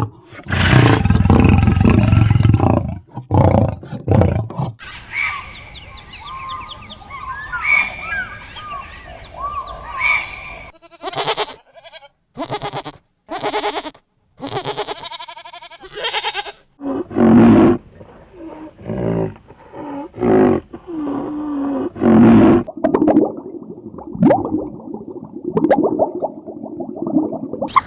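A string of different animal calls spliced one after another, opening with a big cat's loud roar.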